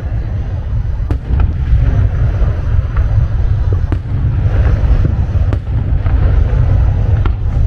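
Fireworks display: steady low booming from the shells, with sharp cracks about every second or so.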